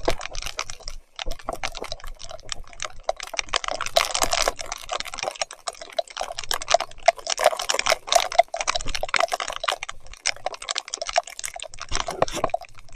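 Dense, irregular clicking and crackling throughout a mountain bike ride in heavy rain and mud: wet spatter and the bike's rattle on the trail.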